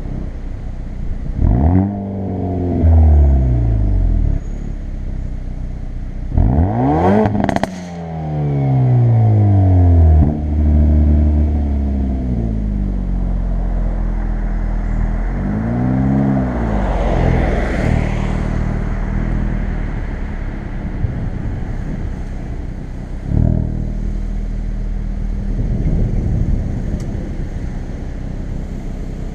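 Hyundai i30 N's 2.0-litre turbocharged four-cylinder under way in N mode, revs rising and falling several times. Two sharp exhaust cracks at the top of a hard pull about seven seconds in, falling revs after it, a quick rev up and down near the middle, then a steadier drone.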